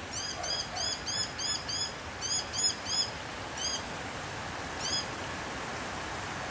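A bird calling in quick runs of short, high, arched chirps, several a second, which thin out to single calls after about three seconds, over a steady hiss.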